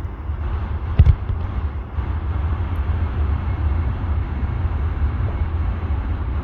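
Steady roar of distant jet airliner engines with a heavy low rumble, and a sharp knock about a second in.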